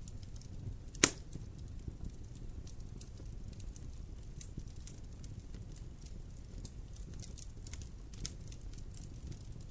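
Wood fire crackling in a fireplace, with scattered small pops over a low rumble and one loud pop about a second in.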